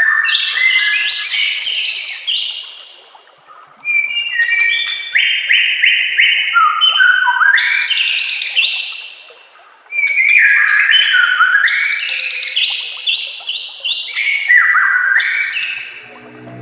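White-rumped shama (murai batu) singing: three loud phrases of rapid, varied whistled notes that sweep up and down, separated by short pauses.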